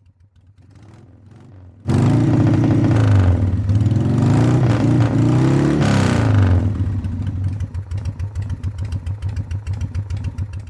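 V-twin motorcycle engine, faint at first, then loud about two seconds in as it is revved up and down a few times, before settling into a pulsing, loping idle.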